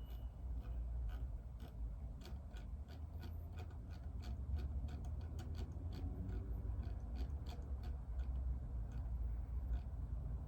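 Keyboard typing: a run of irregular clicks, a few a second, over a low steady rumble.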